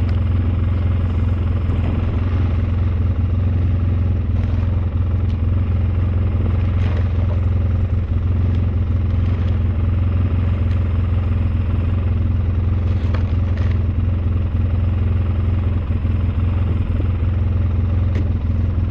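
Engine of a snowplow vehicle running steadily with a deep, even drone, with a few faint knocks.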